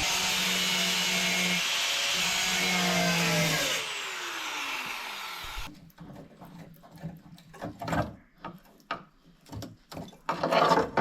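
A rotary power tool runs at full speed cutting through rusted car body sheet metal, then is switched off about four seconds in and its whine falls in pitch as it spins down. Scattered clicks and knocks of handling follow, louder near the end.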